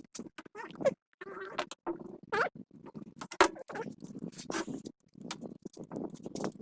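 Irregular clicks, taps and short scrapes of tools and small parts being handled, with a couple of brief squeaks, and a rougher rustling scrape near the end.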